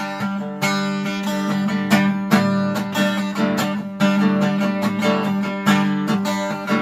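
Acoustic guitar strummed in a steady rhythm, chords ringing between the sung lines of a country-style song.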